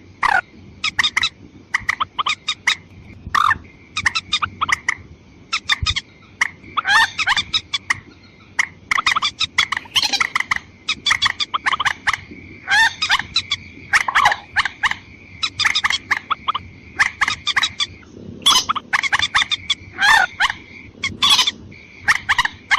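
Bird-lure recording of watercock (mandar ayam-ayaman) calls, male and female: rapid runs of short, sharp clucking notes repeated over and over, over a steady thin high tone.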